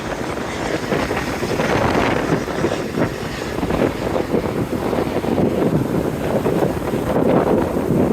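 Wind buffeting the microphone: a loud, uneven rushing noise with no clear tone.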